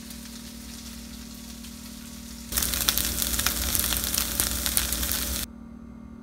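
Beyond Meat grilled chicken strips sizzling in olive oil in a frying pan, a crackling sizzle that starts abruptly about two and a half seconds in and cuts off about three seconds later. A fainter steady hiss comes before and after it.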